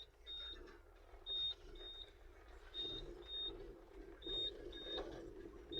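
Electronic warning beeper in a 1994 Toyota Corolla EE103, set off by a dashboard button: a high beep sounding in quick pairs, about one pair a second. Its meaning is unknown to the owner.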